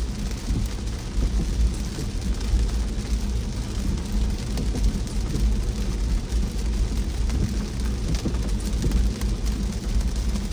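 Steady rain pattering on a car driving on a wet road, over a deep, steady rumble of the car's road noise.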